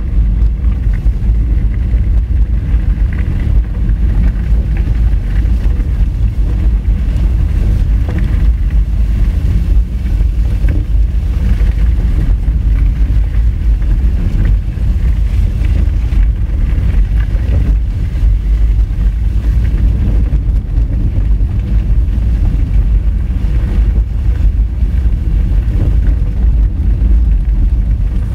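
Honda Fit driving along a rough dirt forest road: a loud, steady, low rumble of tyres and running gear over the unpaved surface, with some wind on the microphone.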